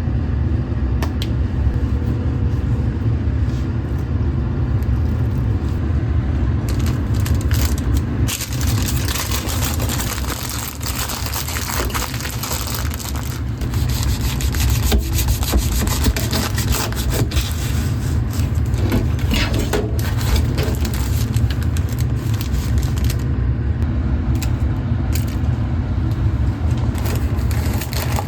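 Kitchen food-preparation sounds: a steady low hum with short clicks and scrapes of utensils, and a hissing sound from about seven seconds in that stops a few seconds before the end.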